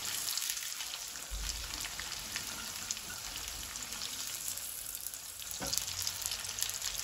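Sliced onions and whole spices frying in hot mustard oil: a steady sizzle full of small crackles, stirred now and then with a silicone spatula.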